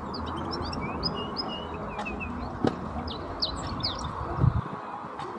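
Wild Atlantic canary singing a fast run of varied high chirps and short slurred notes, which thins out near the end. A sharp click comes a little over halfway, and a loud low thump follows about four and a half seconds in.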